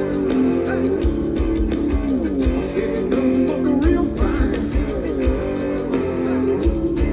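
Live band playing: electric guitar lines that bend in pitch over bass and a steady drum beat.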